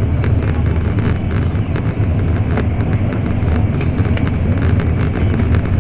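Interior running noise of an N700 Series Shinkansen: a steady, loud low rumble with many small irregular clicks and rattles over it.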